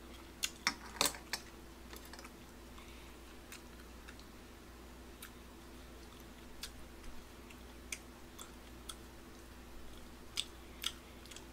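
A man chewing a mouthful of tteokbokki close to the microphone: soft, wet mouth clicks, several in the first second and a half and then one every second or two. A faint steady hum runs underneath.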